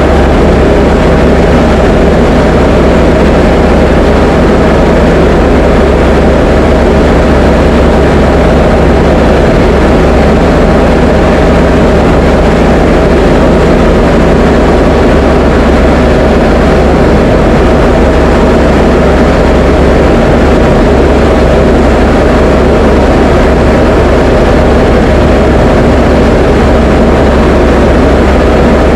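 Diamond DA20 light aircraft's engine and propeller droning steadily in flight, heard loud from inside the cockpit, with no change in power.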